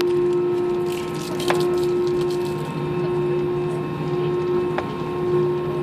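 Steady drone of an airliner cabin: a constant hum with a held tone under an even rush of noise, with two faint clicks, one about a second and a half in and one near the end.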